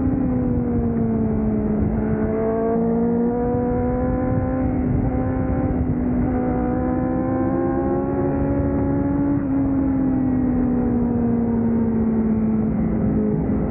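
Honda CBR1000RR-R's inline-four engine running hard at track speed, its pitch sagging and then climbing slowly, stepping down about nine to ten seconds in. Wind rush on the onboard microphone lies under it.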